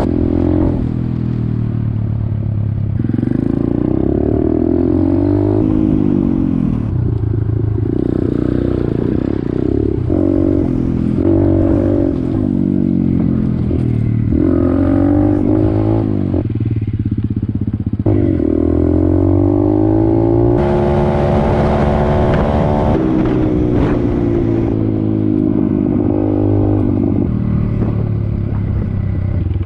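Pit bike's small single-cylinder engine running while ridden, its pitch climbing repeatedly as it accelerates and dropping back between pulls.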